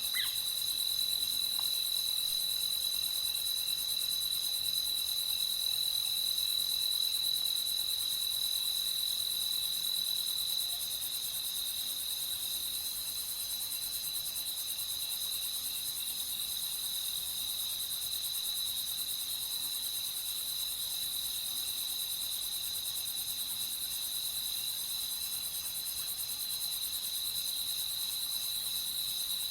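Night chorus of crickets and other insects: a steady, unbroken high trill with faster pulsing calls layered above it. One short chirp comes right at the start.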